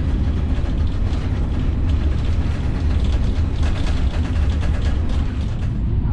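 Cabin noise inside an Italo AGV high-speed train running at 300 km/h: a steady low rumble from the running train, with quick light clicking and rattling that is thickest about halfway through.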